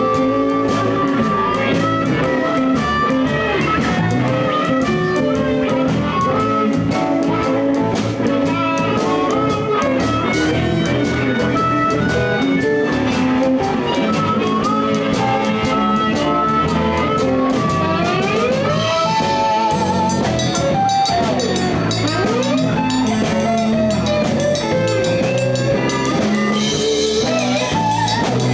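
Live blues band playing a shuffle in A, with electric guitar, bass and drum kit. The lead line bends and slides through several notes in the second half.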